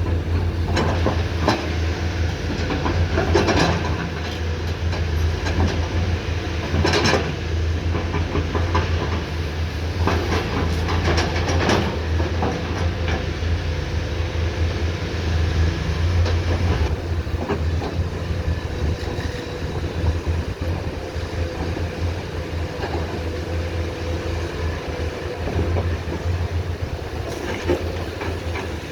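Komatsu PC210 hydraulic excavator's diesel engine running steadily with a deep hum, with several knocks and scrapes of the bucket working the ground, mostly in the first half.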